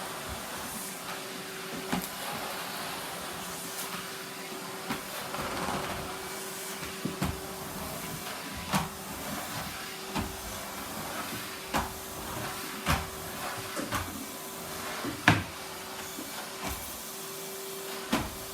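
Numatic Henry canister vacuum cleaner running with a steady hum, broken by sharp clicks and knocks every second or two, the loudest about fifteen seconds in.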